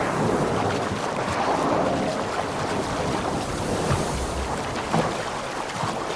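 Sea water surging and splashing at the surface, a steady rushing noise broken by short splashes, with wind buffeting the microphone.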